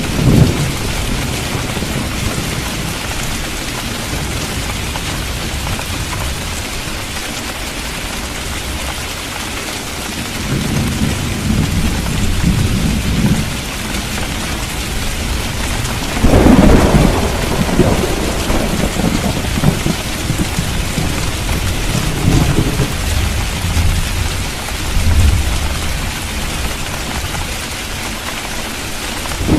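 Steady heavy rain with rolling thunder. Low rumbles come and go, and the loudest peal is about halfway through.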